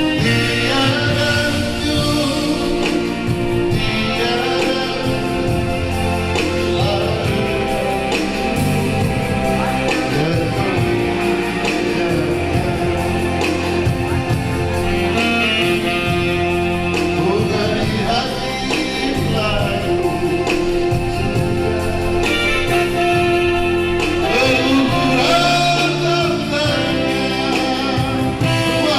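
A song: a voice singing over a band backing with guitar and bass.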